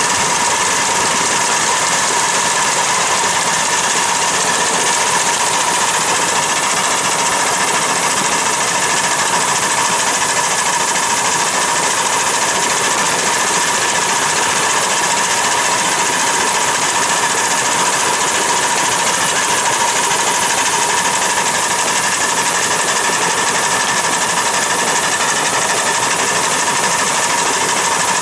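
A machine running steadily, like an engine at idle, with a constant whine held at two pitches; it does not change throughout.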